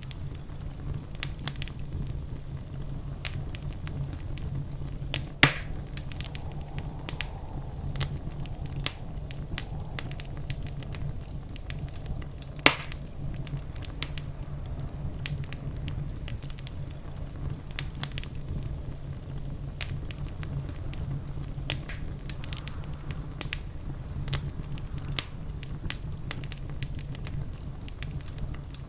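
Wood fire burning in a fireplace, crackling with frequent small snaps over a steady low rumble. Two louder pops come about five seconds in and about twelve seconds in.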